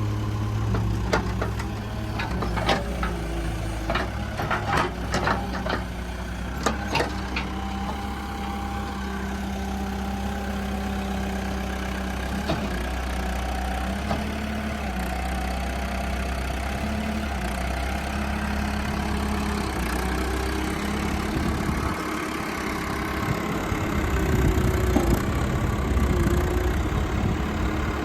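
JCB 214 Series 2 backhoe's diesel engine running steadily while the backhoe is worked. A series of sharp knocks comes in the first several seconds, and the engine note dips and rises now and then under load, growing louder near the end.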